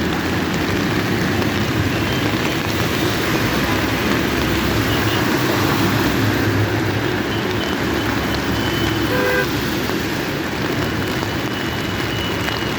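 Steady, heavy rain noise with road traffic, and a brief horn toot about nine seconds in.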